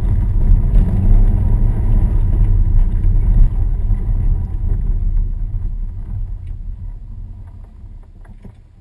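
Car engine and tyre noise heard inside the cabin: a low rumble that fades steadily over the second half as the car eases off.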